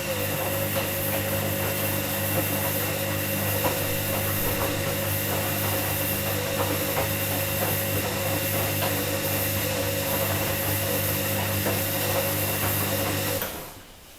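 Washing machine running with a steady motor hum and a rubbing, ticking noise layered over it, which cuts off suddenly near the end.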